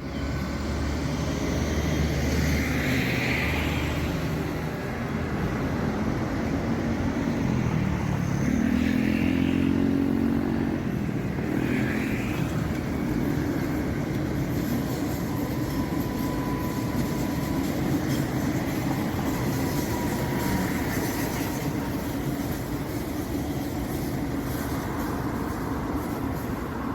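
Cabin noise inside an MTR M-Train carriage: a steady low hum of the train's equipment, with a pitched tone that glides down and back up about eight to ten seconds in.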